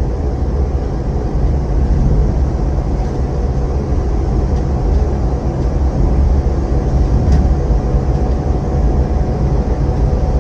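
Steady rumble of a motorcycle being ridden at speed, dominated by wind buffeting the microphone, with the engine and tyres running underneath and no break or change.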